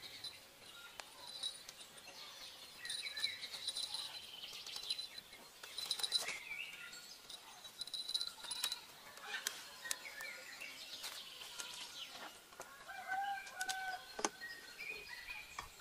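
Birds chirping and calling: short repeated high notes and brief rising and falling calls, with a few light clicks and rustles.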